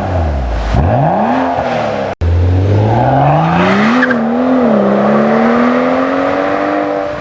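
BMW 640i's turbocharged straight-six running through an aftermarket Tunist dual valved exhaust. The revs swing up and down in quick blips, then after an abrupt cut they climb steadily for a couple of seconds, waver, and hold at a slowly rising pitch.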